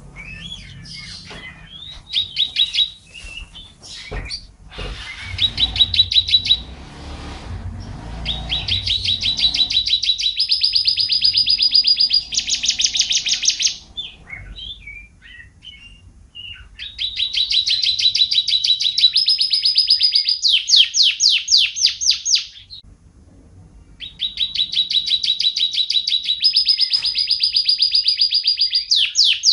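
White-rumped shama (murai hutan) singing. Each phrase is a rapid train of repeated notes that climbs in steps and ends in a burst of fast sweeping notes, and the phrase repeats about every seven seconds.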